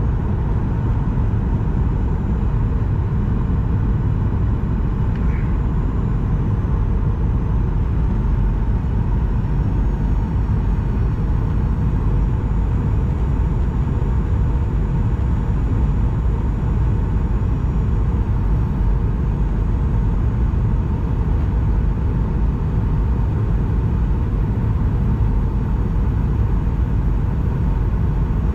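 Steady cabin noise of a Boeing 737-900ER airliner: a deep, even rumble of engines and airflow, with a faint steady hum above it.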